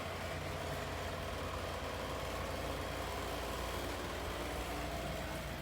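A motor running steadily with an even hum, like an engine idling.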